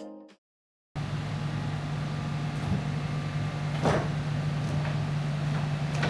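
A Sany SY215C crawler excavator's diesel engine running steadily with a low hum, starting after a brief silence about a second in. A couple of short knocks sound over it, one near the middle.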